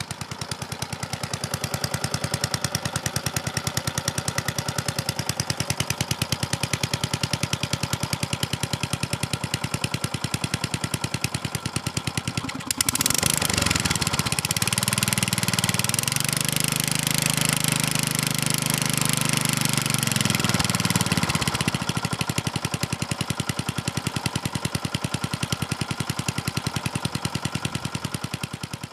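Petrol lawnmower engine running steadily at medium throttle just after a cold start, with fast even firing. About thirteen seconds in it suddenly gets louder for several seconds, then settles back to its earlier level.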